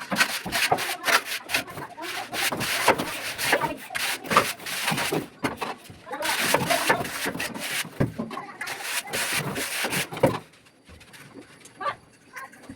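Hand tool scraping and rubbing over wet plaster in quick repeated strokes, stopping briefly twice.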